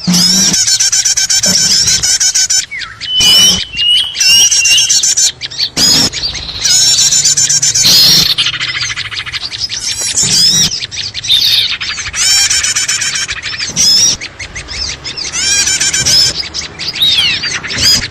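A busy chorus of many small songbirds chirping and twittering all at once, fast overlapping chirps with a few clear whistled notes: a 'ribut' (noisy) lure call played to draw small birds in.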